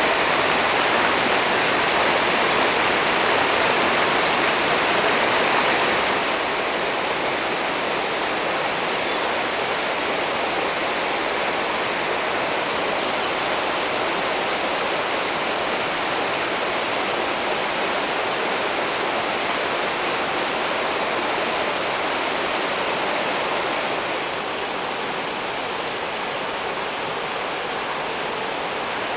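Mountain stream rushing over rocks: a steady, full rush of running water. It drops a little in level and sounds duller about six seconds in and again near the end.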